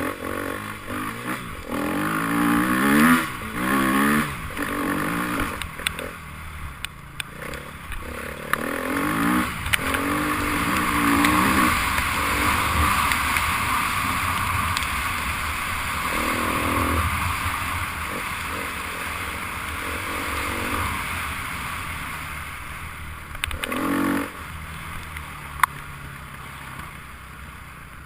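Enduro motorcycle engines revving up and down as bikes pass, several rises and falls in pitch in the first ten seconds and again near the end, with a long stretch of steadier engine and surface noise in between.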